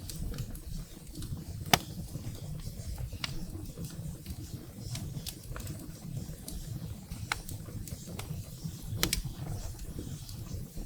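Wood fire burning in a fireplace: a low rumble of flames with scattered sharp crackles and pops of firewood, the loudest pop about two seconds in and a few more near the end.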